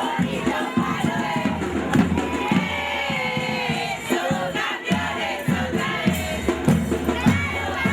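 A crowd of voices shouting and cheering over loud music with a beat.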